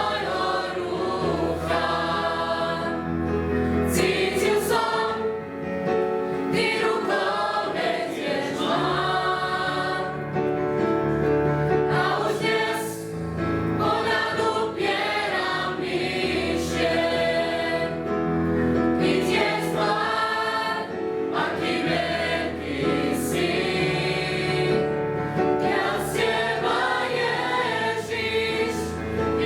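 Youth choir singing a Christian song in Slovak, many voices together in sustained phrases.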